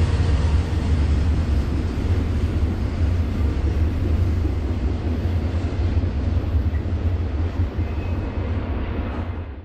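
Low, steady rumble of a long BNSF freight train going away just after its last car has passed, slowly fading.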